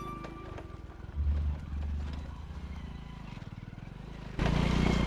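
Motorcycle engine running with quick, even firing pulses. About four seconds in the sound jumps suddenly louder and fuller, as of the bike under way.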